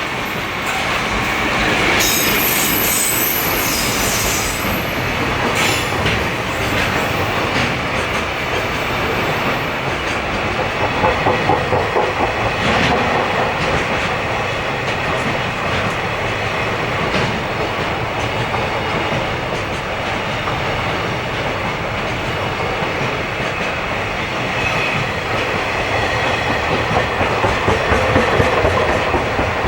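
A long freight train's wagons rolling past, with wheels clattering over rail joints in rhythmic bursts. The clatter grows louder about a third of the way in and again near the end.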